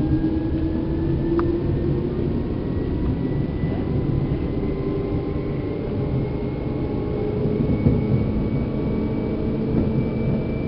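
Seibu New 2000 series electric train motor car running, heard from inside the cabin: the traction motor whine climbs slowly in pitch as the train gathers speed, over a steady rumble of wheels on rail.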